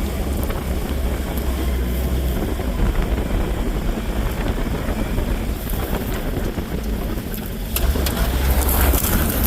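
Off-road 4x4 vehicle engine running while driving, with rumbly wind noise on the microphone; the engine's low drone dips slightly mid-way and swells again near the end.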